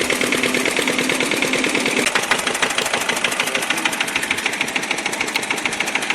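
A homemade mini tractor's small motor running with a fast, even clatter as the model tractor drives.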